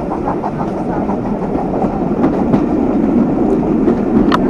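Train running along the track, heard from aboard: a steady rumble of wheels on rail with a few sharp clicks about two seconds in and near the end.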